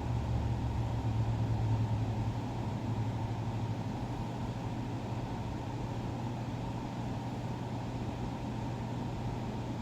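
A steady low mechanical hum over a rumbling noise, a little louder in the first couple of seconds.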